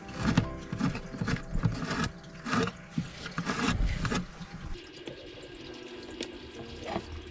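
Water pouring and splashing in uneven bursts for about the first four and a half seconds, then settling to a quieter, steadier flow.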